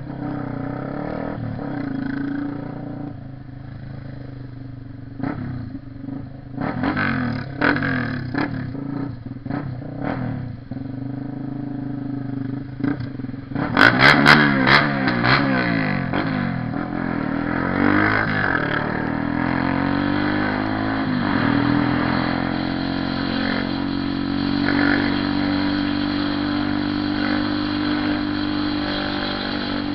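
Honda CB 300R single-cylinder motorcycle engine running on the move. About halfway through it gets a loud burst of revving with a rapid crackle, then the pitch climbs as it accelerates and settles into steady running.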